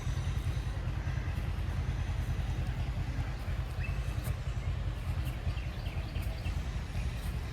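Engine running steadily, its sound sitting mostly low in pitch.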